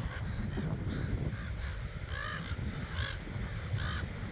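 Several crows cawing in alarm, harsh calls repeated about once a second with the three loudest in the second half. This is the alarm cawing crows give when they spot a predator, here a coyote. A low rumble runs underneath.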